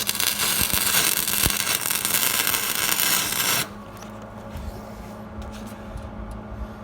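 Hobart Handler 140 wire-feed welder running flux-core wire: a steady crackling arc for about three and a half seconds that cuts off suddenly, as a tack weld is laid on a tractor exhaust pipe. A few faint clicks and a low hum follow.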